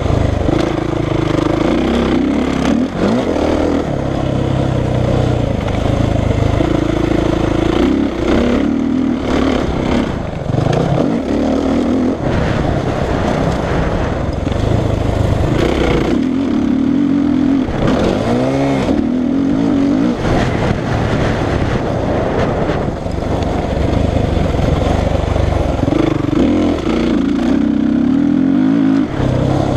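Suzuki RM-Z450 single-cylinder four-stroke motocross bike engine, revving up and dropping back over and over as the throttle is opened and shut and the gears change, with a quick rise and fall just before the 19-second mark.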